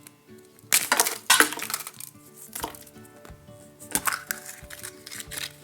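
A chocolate surprise egg being broken open by hand, with sharp cracks and clinks that are loudest about a second in and fewer after, over quiet background music.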